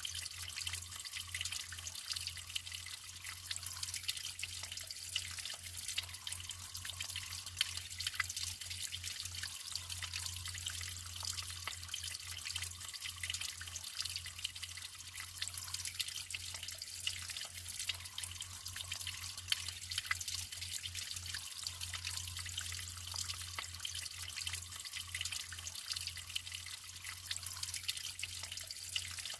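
Natural running water trickling and splashing steadily, dense with small drips and droplet ticks, over a steady low hum.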